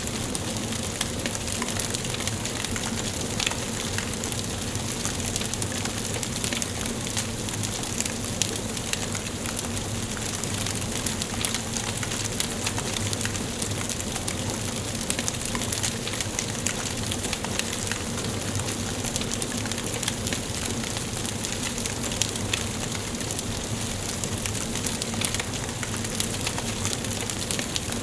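Wood fire burning in a fireplace: a steady hiss dotted with many small crackles and pops of burning logs.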